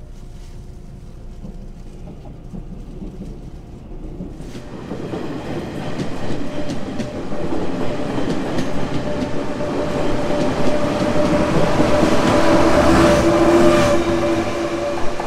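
Passenger train running alongside a station platform: rumble and clatter of the cars building up to their loudest near the end, with a steady whine. The first few seconds are quieter platform ambience before the train sound rises.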